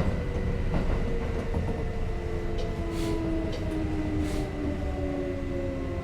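Kintetsu 5800 series electric train heard from aboard: motor whine falling steadily in pitch over a low running rumble as the train slows, with a couple of wheel clacks near the start and two short hisses in the middle.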